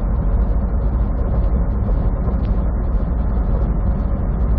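Steady low rumble of a semi truck's engine and road noise heard from inside the cab while driving.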